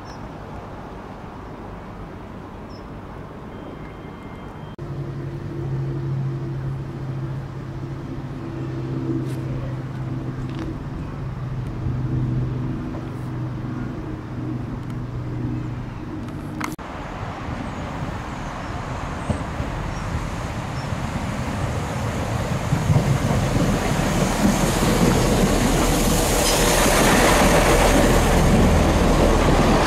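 A train approaching along the line, its running noise swelling steadily over the second half and loudest at the end. Before that, a steady engine-like hum cuts off abruptly just over halfway through.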